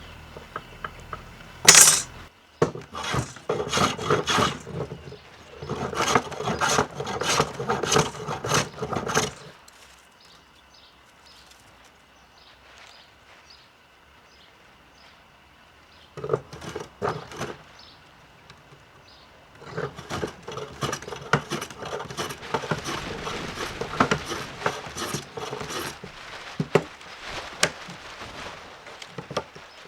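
Rapid scraping strokes of a hand tool working wood, in three long runs separated by pauses, with a sharp knock about two seconds in.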